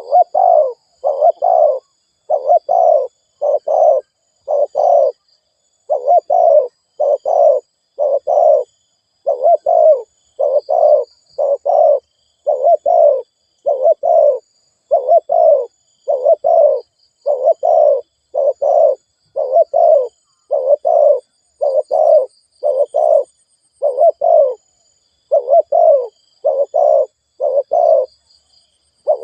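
Spotted dove cooing fast and without pause, a steady run of low coos at about two a second: the rapid bowing coo that trappers play as a lure call to rouse a decoy dove. Faint high chirps of small birds sound behind it.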